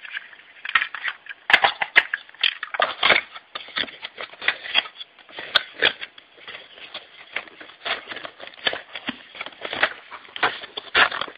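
Something being handled close to the microphone: a dense, irregular run of sharp clicks, taps and crackles.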